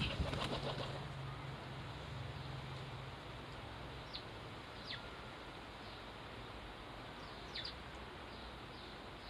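A flutter of small birds' wings trailing off at the start, then a few short, high, falling chirps from sparrows, spaced a second or more apart.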